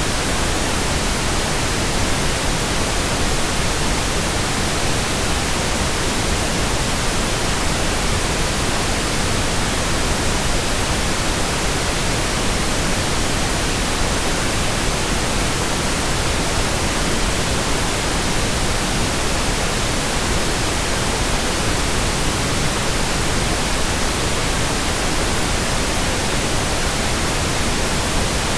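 Steady synthetic white noise: an even, unbroken hiss spread across the whole range from deep to very high, unchanging throughout.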